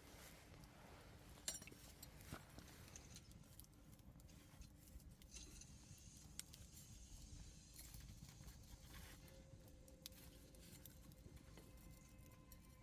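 Near silence with a few faint, sharp clicks, the sharpest about one and a half seconds in.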